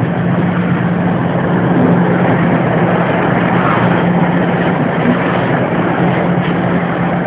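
Diesel locomotive running steadily under power, a loud, even engine drone with a strong low hum.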